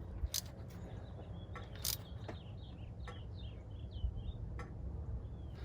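Bird chirping in a quick series of short calls over a low background hum, with a few scattered light clicks and taps of hand tools on the engine.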